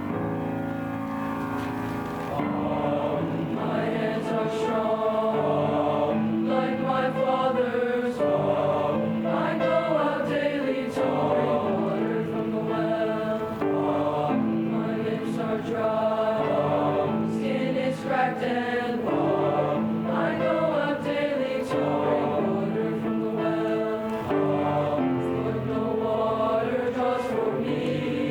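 Middle-school boys' bass choir singing a choral song in parts, growing a little louder a couple of seconds in.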